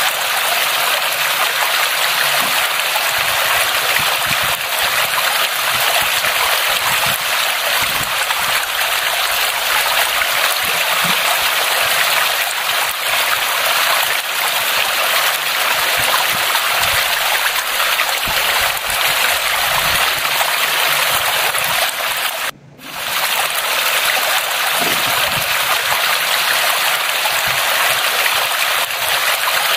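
Steady rushing water, a continuous even hiss with a brief dropout a little past two-thirds of the way through.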